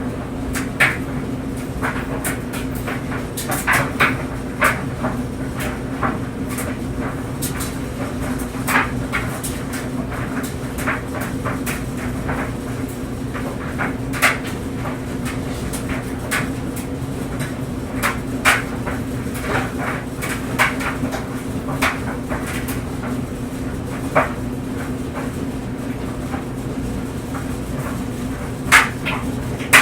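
Clothes dryer running with clothes tumbling in the drum: a steady low hum from the motor and drum, with irregular knocks and clicks as the load falls and strikes the drum.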